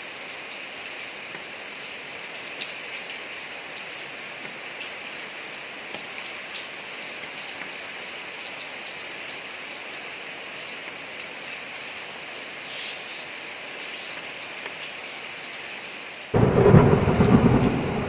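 Steady rain falling on a street, an even hiss with scattered drop ticks. Near the end a sudden loud clap of thunder breaks in and rumbles on, far louder than the rain.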